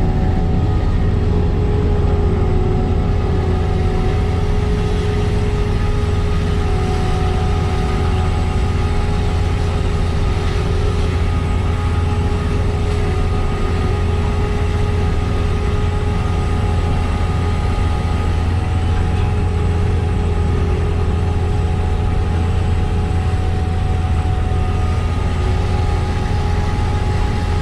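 Diesel engine of a working sugar beet harvester running steadily under load, a constant deep drone with a steady whine over it.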